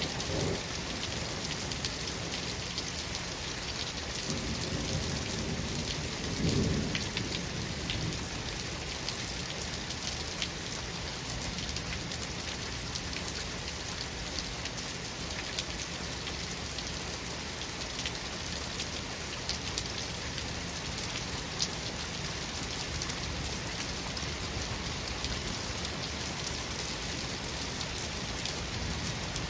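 Steady heavy rain falling on a surface, with a roll of thunder that builds and peaks about six seconds in, then fades back into the rain.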